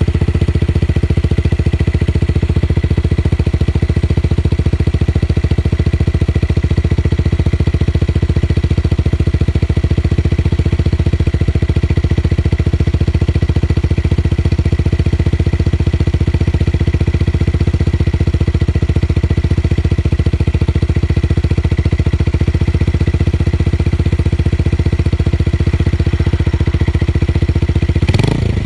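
Motorcycle engine, tuned for a deep bass exhaust note, idling with a loud, steady, even pulse. Right at the end the pitch briefly rises and falls as it is revved.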